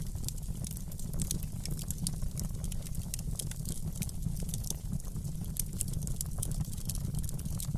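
Fireplace fire crackling: frequent sharp little pops and snaps over a steady low rumble of the flames.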